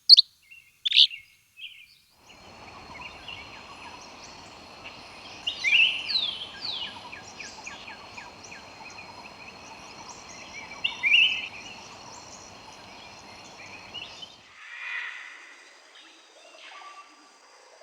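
Wild birds calling: two sharp downward-sweeping calls at the start, then, after a brief gap, a forest background with a steady high whine and repeated descending calls that peak twice. Near the end the background cuts away to different, lower calls.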